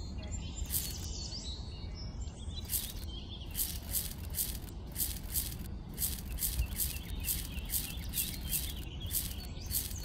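Birds chirping over a steady low hum, with a series of short high clicks, about two a second in the second half.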